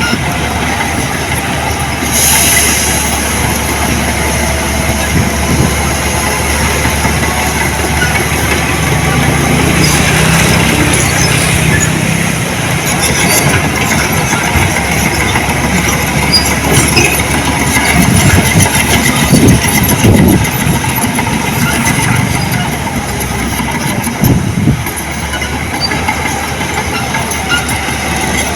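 Heavy earthmoving machinery working, its engine running under load with a continuous mechanical noise that swells louder a few times in the second half.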